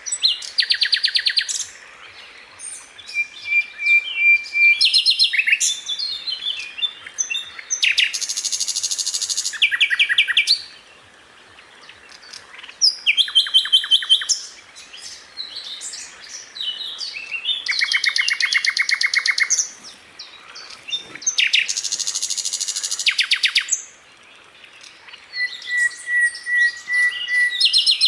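Sikatan londo flycatcher singing: repeated high-pitched bouts of fast, evenly spaced trilled notes (the 'roll'), each a second or two long. A short held whistle comes a few seconds in and again near the end.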